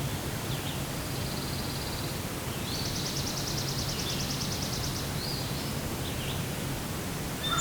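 Outdoor morning ambience: a steady background hiss with songbirds calling. A short high trill comes about a second in, a longer rapid high trill runs from about 3 to 5 seconds, and a few short chirps are scattered between.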